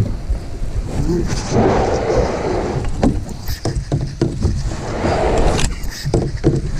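Knocks and bumps of a kayak and its paddle being handled, over a steady low rumble.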